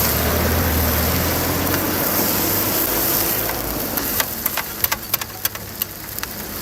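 A motor running with a steady low hum that drops away about three and a half seconds in, followed by a run of sharp clicks and taps.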